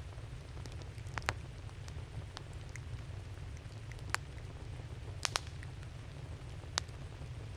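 Wood campfire crackling, with a handful of sharp pops scattered through it, two in quick succession just past the middle, over a steady low rumble.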